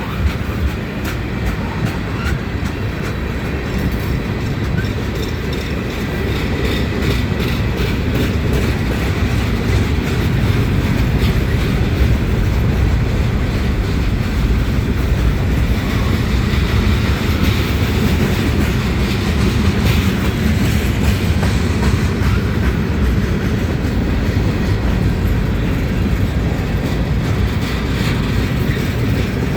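Freight cars of a mixed manifest train rolling past steadily, with a continuous rumble and irregular clicking of steel wheels over the rail joints.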